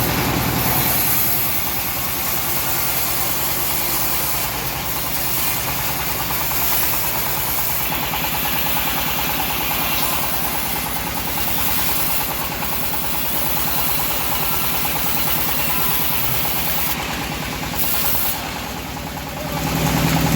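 Engine of a homemade bandsaw sawmill running steadily, with a fast, even beat; it dips briefly near the end.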